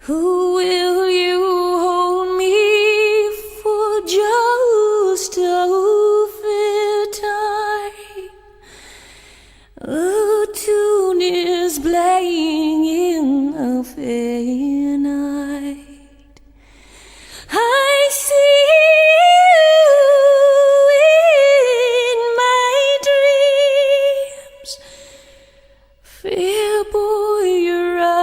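A woman singing unaccompanied in long, held phrases with vibrato, her pitch gliding up and down. There are four phrases, with short pauses between them.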